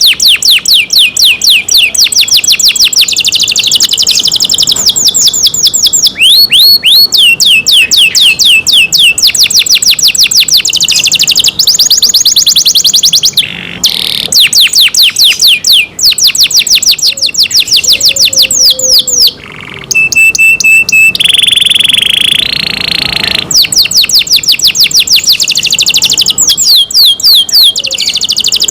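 Domestic canary singing loudly: long rolling trills of fast, high repeated notes, broken by a few short pauses and a brief held note about three-quarters of the way through.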